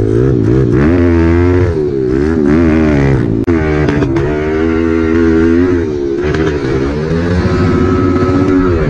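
Pit bike engine being ridden hard, its pitch rising and falling again and again as the throttle is opened and shut.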